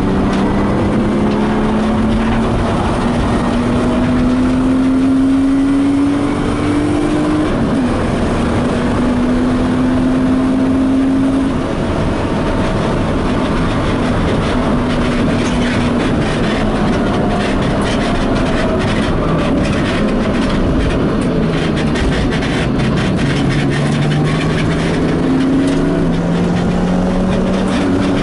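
BMW E36 coupe's engine driven hard on a racetrack, its pitch climbing under acceleration with a drop at an upshift about seven seconds in, rising again, easing in the middle and building once more near the end. Heard from inside the stripped, roll-caged cabin over a steady rush of road and wind noise.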